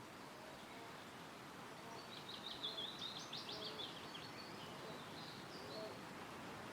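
Wind rustling through trees as a steady soft hiss, with a songbird singing one fast phrase of high, rapid notes starting about two seconds in and lasting about two seconds, followed by a few fainter high notes near the end.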